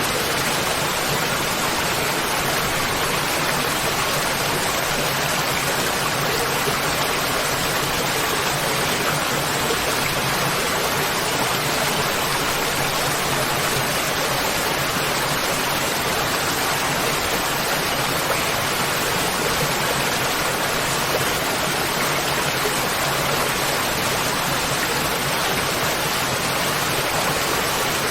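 Waterfall: water falling and rushing in a steady, even roar with no change in level.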